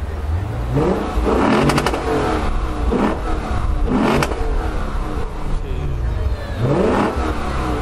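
Car engine revved in about four short throttle blips, each a quick rise in pitch, with a few sharp crackles at the peaks, over a steady low rumble.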